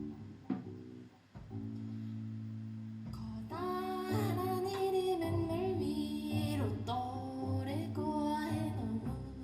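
Song with guitar accompaniment; a singing voice comes in about three and a half seconds in, over the chords.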